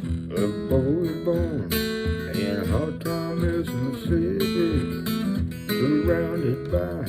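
Acoustic guitar strummed in a steady rhythm, with a melody line that bends and slides in pitch over it.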